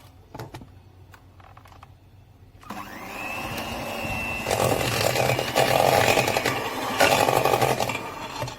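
Electric mixer switched on about three seconds in, running with a steady high-pitched whine as it beats room-temperature butter; it gets louder and rougher about halfway through, and stops near the end.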